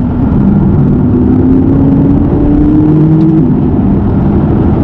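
McLaren 570GT's twin-turbo V8 pulling hard under acceleration, its note climbing steadily until an upshift about three and a half seconds in drops it to a lower pitch.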